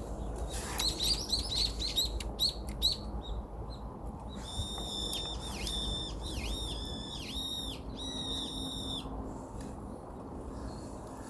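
A small songbird calling: a quick run of high chirps, then a series of repeated high whistled notes that each rise and fall, lasting about four seconds.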